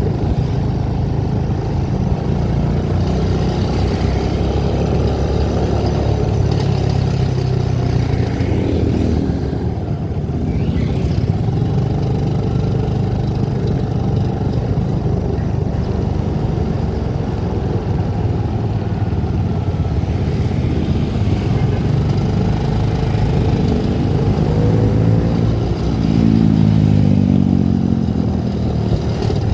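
Vehicle engine and road noise while driving: a steady low engine hum, with an engine note that rises and then falls in pitch near the end.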